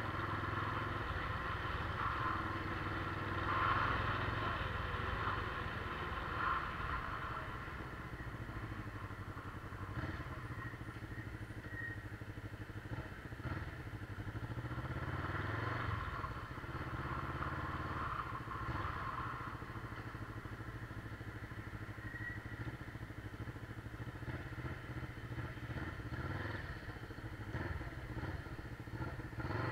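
Motorcycle engine running on the move, its pitch rising and falling several times with the throttle.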